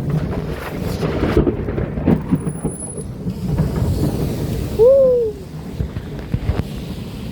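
Thunder rumbling loudly for several seconds, with a few sharp cracks in the first couple of seconds, over steady rain.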